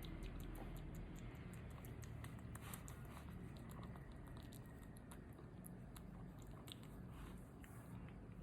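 A baby monkey chewing, heard as a quick run of faint crackly clicks that thins out over the last few seconds.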